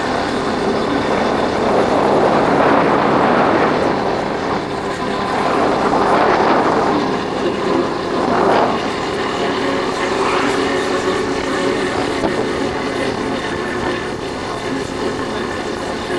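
Yamaha Factor 150 motorcycle's single-cylinder four-stroke engine running steadily while riding, with wind rushing over the microphone and swelling several times.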